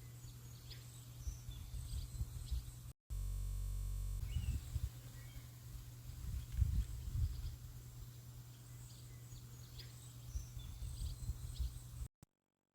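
Outdoor nature ambience: scattered short bird chirps over a low rumble, with a brief steady hum about three seconds in and an abrupt cut to silence near the end.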